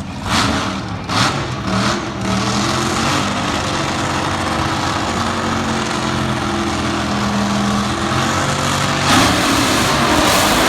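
Drag-race car engine being started: three sharp cracks in the first two seconds, then the engine running steadily, with a sudden louder surge about nine seconds in.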